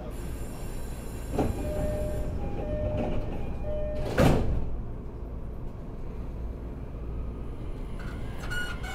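An E231-1000 series electric train running, heard at the gangway plates between cars: a steady rumble from the wheels and running gear, with the tones of its original Hitachi IGBT VVVF inverter in the first few seconds. There is a light knock early on and a sharp metallic clank about four seconds in.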